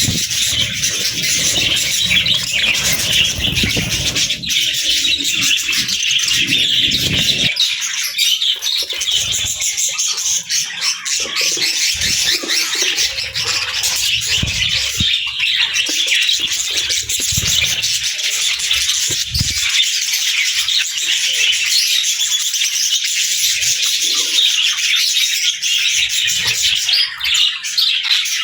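Budgerigars chirping and chattering nonstop in a dense, high twitter, with low rustling in the first seven seconds or so.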